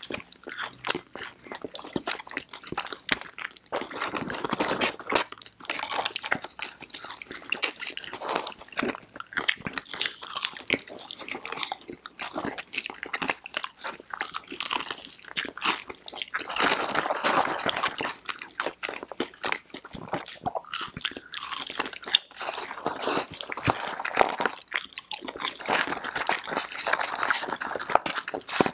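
Close-miked chewing and crunching of fried food: two people biting into and eating crinkle-cut fries and toasted bread, with a steady stream of irregular crackling bites.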